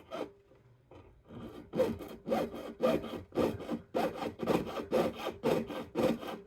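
Jeweller's saw cutting 22 gauge copper sheet, starting about a second and a half in with quick, even up-and-down strokes, about three a second.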